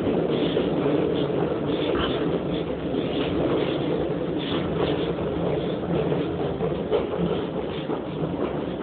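Passenger train in motion, heard from inside the carriage: a steady rumbling running noise with a few light knocks scattered through it.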